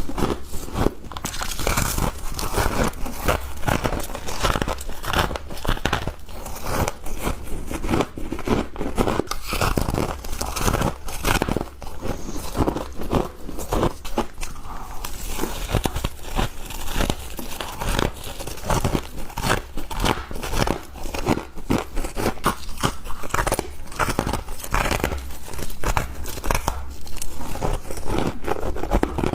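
Close-up crunching of soft, powdery freezer frost being bitten and chewed, a dense run of crisp, irregular crunches.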